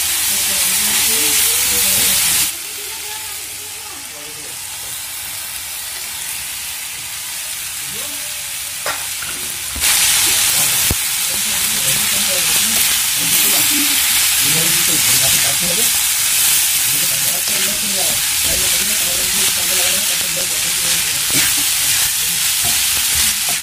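Frying and sizzling in a kadai as a wooden spatula stirs and scrapes a vegetable masala, then tosses boiled fusilli pasta through it. The sizzle drops about two and a half seconds in and comes back louder about ten seconds in.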